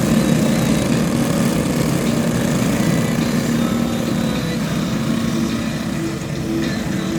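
Several junior speedway motorcycle engines running at low, fairly steady revs as the field circles slowly to line up for a restart, making a continuous engine drone.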